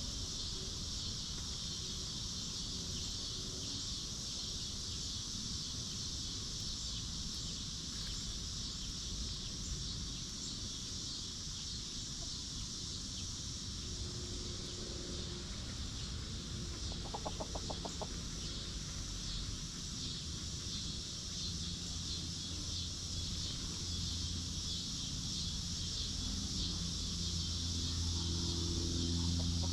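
Hens clucking, mostly in the last few seconds, over a steady high-pitched insect buzz.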